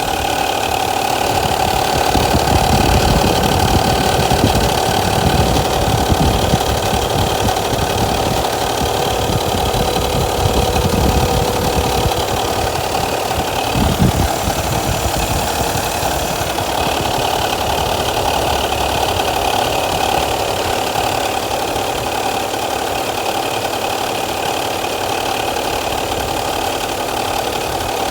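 Toyota Aristo's electric radiator cooling fan running with an abnormal noise, a steady hum over an uneven low rumble, with a brief thump about halfway through. The owner takes the noise as a sign that the fan motor is nearing the end of its life.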